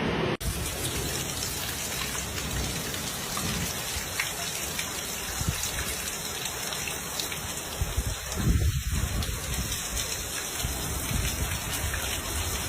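A heavy hailstorm pelting down: a dense, steady hiss of hail and rain with fine ticks of individual impacts. A low rumble swells briefly about eight seconds in.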